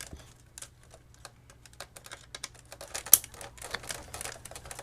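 Irregular small clicks and taps of a screwdriver and plastic parts being handled while removing the screws and circuit board from a clock radio's plastic housing, with one sharper click a little past halfway.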